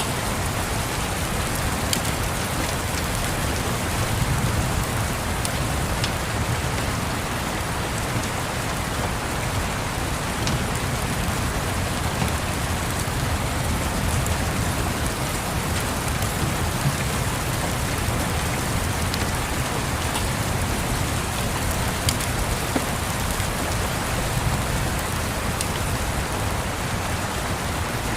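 Steady rain falling, an even hiss with scattered sharp clicks, over a low rumble of distant thunder that swells about four seconds in.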